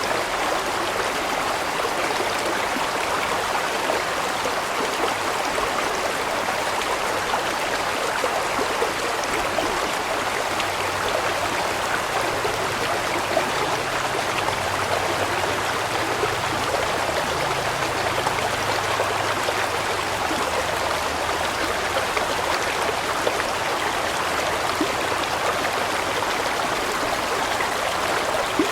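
Large stream of water flowing and splashing over rocks in a steady, even rush.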